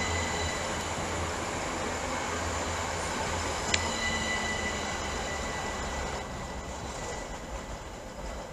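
A pair of Class 387 electric multiple units running at the platform: a steady rumble with a thin, high electric whine that slowly fades. A brief sharp click about four seconds in.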